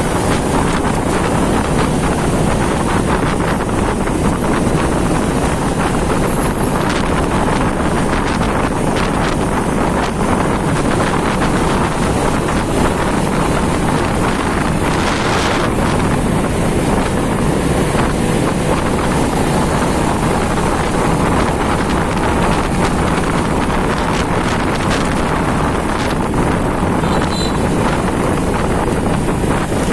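Steady wind rushing over the microphone of a moving motorcycle, over the constant noise of engine and road. About halfway there is a brief louder rush.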